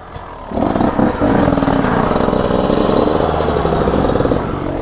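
Dirt bike engine coming in about half a second in, then running at steady low revs.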